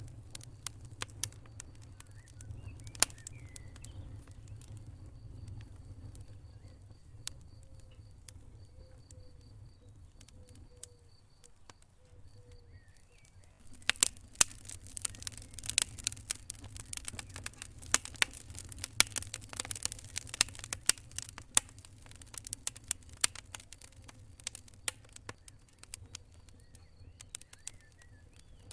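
Wood fire crackling in a fireplace, over a steady low rumble of the flames. Pops are sparse at first, then turn into a dense run of sharp crackles about halfway through that thins out near the end.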